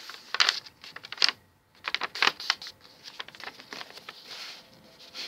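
A sheet of A4 printer paper being folded and creased by hand, crackling and rustling in irregular bursts, with a few sharp crinkles in the first couple of seconds.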